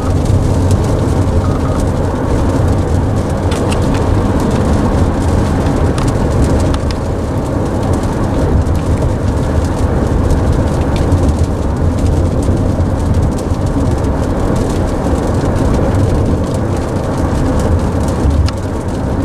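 Heavy rain on a moving car, heard from inside the cabin: a steady rumble of tyres on the wet road, with rain striking the roof and windshield as a constant fizz of fine ticks.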